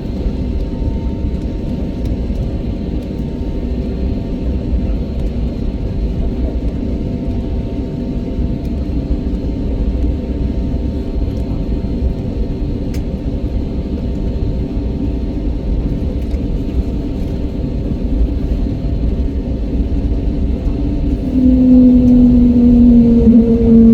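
Steady low engine rumble of a vehicle, with a steady hum. About 21 seconds in, a louder, steady two-note drone comes in.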